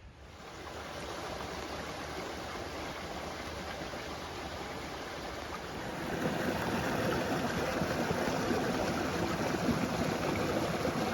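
Small woodland stream running: a steady rush of water that grows louder about six seconds in.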